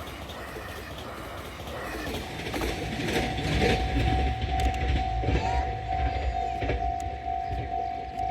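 A 273 series 'Yakumo' limited express train runs through a level crossing. The rumble of its wheels on the rails swells about two seconds in and stays loud, with a steady high tone over it from the same point.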